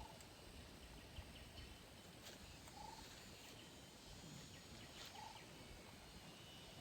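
Very quiet outdoor ambience with a short animal call repeated three times, about two and a half seconds apart, over faint hiss and small ticks.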